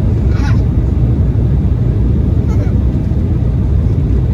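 Steady low rumble of engine and airflow noise inside the cabin of an Embraer 195 airliner, with a faint voice briefly heard twice.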